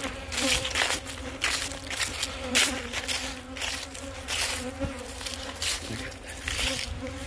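Swarm of agitated honey bees buzzing close around the microphone, a steady hum whose pitch wavers as bees fly near, stirred up after their hive was taken apart. Frequent brief rustling noises come and go over the buzz.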